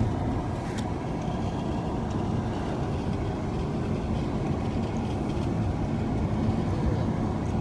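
Steady road noise of a car driving along, heard from inside the cabin: a constant low rumble of tyres and engine.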